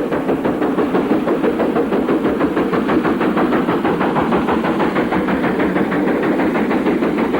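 Duchess of Hamilton, a four-cylinder LMS Coronation-class steam locomotive, running fast: a rapid, even rhythm of exhaust beats from the chimney.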